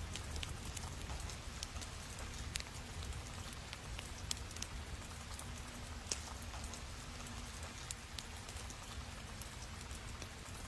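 Paper journaling materials handled close to the microphone: scattered light, irregular clicks and taps over a faint steady hiss.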